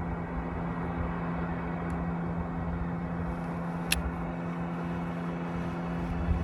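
Motorboat engine running at speed, a steady drone, with a single sharp click about four seconds in.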